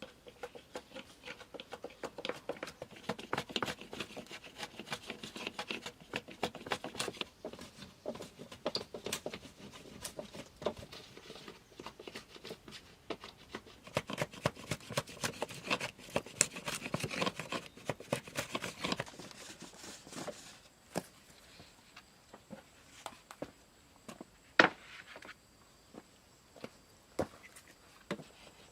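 Handling noise from hand work: dense crackling and rustling with many small snaps and clicks for about twenty seconds, then scattered clicks with one sharp knock near the end.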